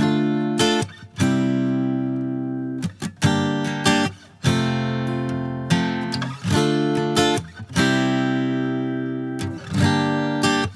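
Acoustic guitar intro to a song: strummed chords, each one left to ring and fade before the next strum.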